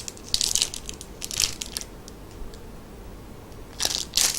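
Plastic packaging crinkling and crackling in short bursts as toys are handled and unwrapped, three bouts with pauses between.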